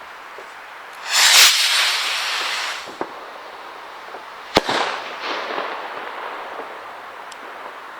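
Zink gold firework rocket launching with a loud whoosh about a second in, then a sharp bang as it bursts a few seconds later, followed by a fading hiss.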